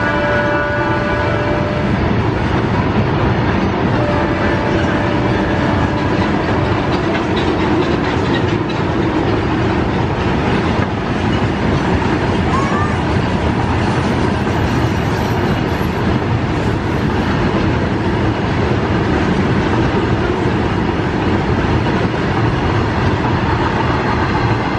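Freight train of tank wagons rolling past, a loud, steady rumble and rattle of steel wheels on the rails. A few steady tones sound together over it in the first couple of seconds.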